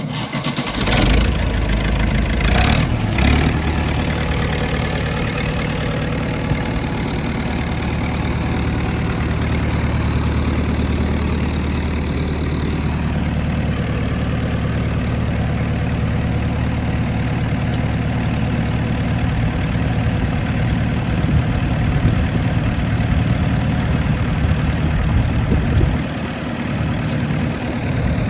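Massey Ferguson tractor engine just after starting, with a few sharp bursts in the first seconds as it catches, then running at a steady idle. Near the end the engine note drops briefly and then picks up again.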